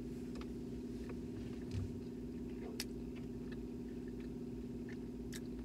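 Faint, scattered mouth clicks and smacks of a person chewing fried food, over a steady low hum inside a car's cabin.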